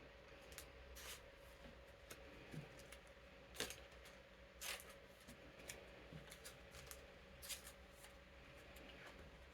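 Trading cards being slid into plastic card sleeves: faint, scattered rustles and clicks of card and plastic, the sharpest about three and a half and four and a half seconds in, over the steady hum of an electric fan.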